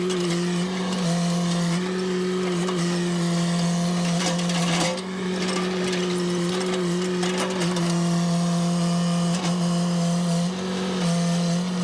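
Chainsaw running at high revs with a steady, high-pitched engine note, dipping briefly a few times.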